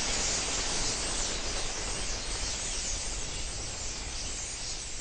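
A huge flock of starlings: a dense, steady rushing hiss of massed wingbeats with many faint chattering calls mixed in.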